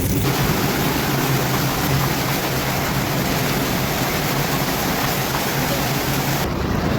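Steady rush of storm water, heavy and even, with no break. It starts abruptly and changes abruptly about six and a half seconds in, as the higher part of the sound drops away.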